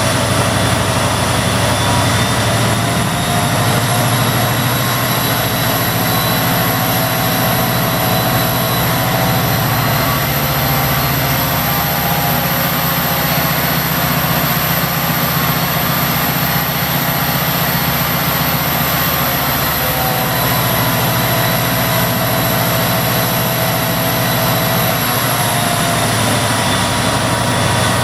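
Victorian Railways C class diesel-electric locomotive C501's turbocharged EMD diesel running hard under power, loud and steady. A high turbocharger whine comes in a few seconds in and falls away near the end, while the engine note shifts a couple of times.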